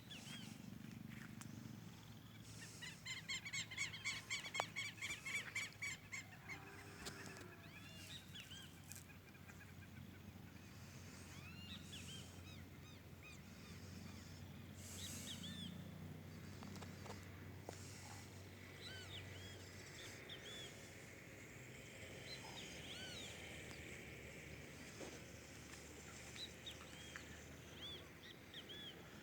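Birds calling outdoors. About three seconds in comes a fast run of repeated high notes lasting a few seconds, and scattered short chirps follow.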